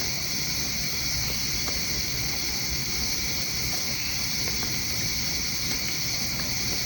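Crickets chirring in a steady, continuous chorus, a high unbroken buzz, over a low rushing noise; it all cuts off suddenly at the end.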